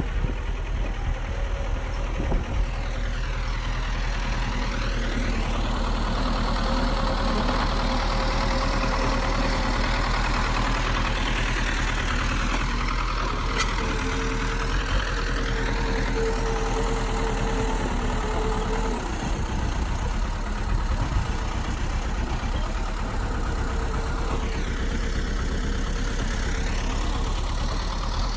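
Bulldozer's heavy diesel engine running steadily with a constant low rumble.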